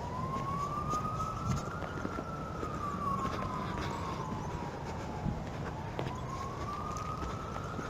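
A distant siren wailing slowly, its pitch rising for about two seconds, falling for about three and a half, then rising again, over a steady low background rumble.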